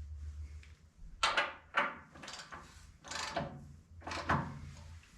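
Socket ratchet clicking in about half a dozen short back-strokes as a new oil-pan drain plug is snugged down.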